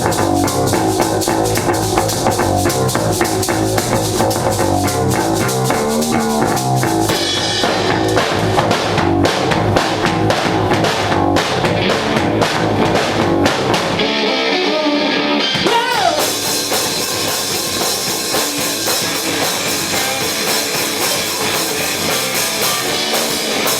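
Live rock band playing: drum kit with cymbals, electric guitar and bass. About 14 seconds in the bass and low drums drop out for a couple of seconds, then the full band comes back in.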